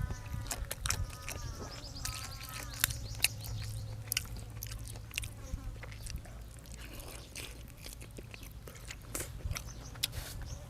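A person chewing and biting food close to the microphone, with many small clicks and crunches.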